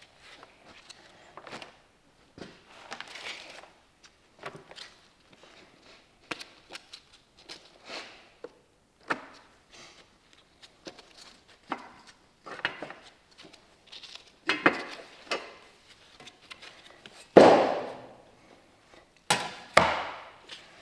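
Hand tools working a stuck part of an Allison automatic transmission loose: irregular knocks, taps and clanks of metal, the heaviest few blows in the last several seconds.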